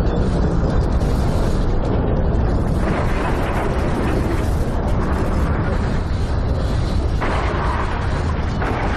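A loud, continuous deep rumble with a rough roar over it, shifting in character about three seconds in and again about seven seconds in.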